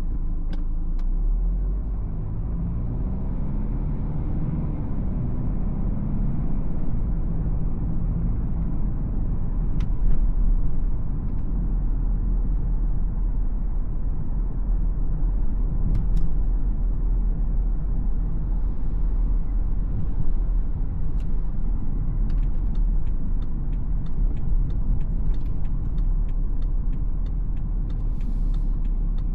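BMW X4 xDrive20d's 2.0-litre four-cylinder turbodiesel with road and tyre rumble while driving. The engine pitch rises between about two and seven seconds in as the car accelerates. Scattered sharp ticks come more often over the last several seconds.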